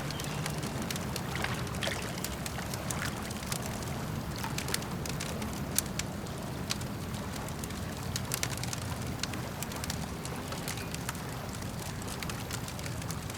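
Campfire crackling, with irregular sharp pops and snaps scattered throughout and one louder pop near the middle, over a steady low wash of lake water.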